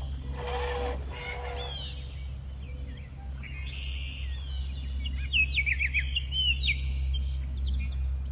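Birds chirping and calling, with a quick run of falling chirps about five to six and a half seconds in, over a steady low hum.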